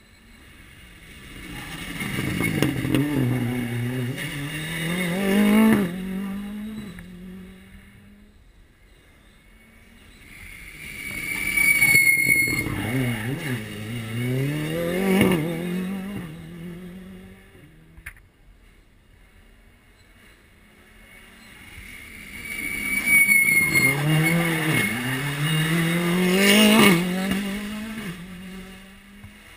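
Three rally cars pass one after another, each a few seconds of engine revving up and dropping back through gear changes, with quieter gaps between the passes.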